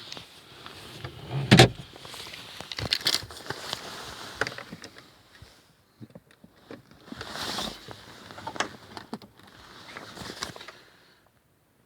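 Irregular knocks, clicks and rustling from someone handling a Renault Megane, with no engine running. The loudest is a sharp knock about a second and a half in.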